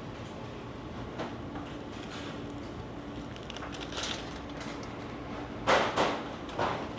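A steady low hum with a few short knocks and clatters, the loudest two coming close together near the end.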